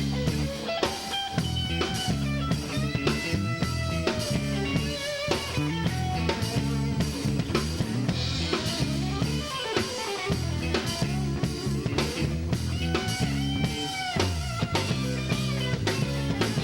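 Live blues-rock band playing an instrumental break: a lead solo of bending, sliding notes over a steady bass line and drums.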